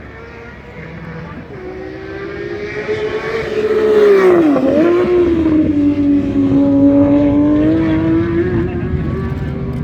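Car engine on the track, growing louder as the car approaches. About four and a half seconds in the note dips sharply in pitch and comes back, then holds a steady, lower note.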